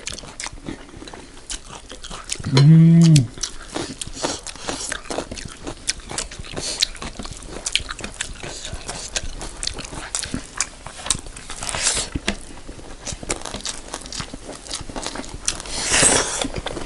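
Close-miked chewing and lip smacking of two people eating rice and curry with their hands, a run of small wet clicks. A short hummed "mmm" comes about three seconds in, and there are louder mouth noises near twelve and sixteen seconds.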